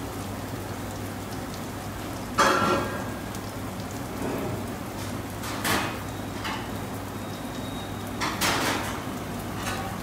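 Sliced onions and raisins sizzling in hot oil in a frying pan on a gas burner: a steady crackling hiss over a low steady hum, with a few louder clatters about two and a half, five and a half and eight and a half seconds in.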